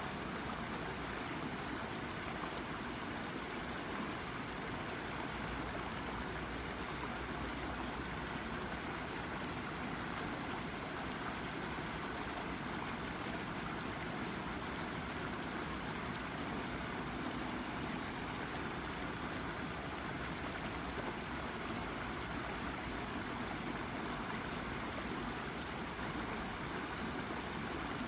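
A shallow brook babbling and trickling over a rock, a steady, even rush of running water.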